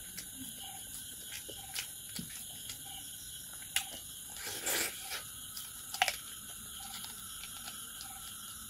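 A person chewing a handful of rice and pork with the mouth open: wet smacks and sharp clicks, the loudest about 4 and 6 seconds in, with a short noisy smack near 5 seconds, over a steady background hiss.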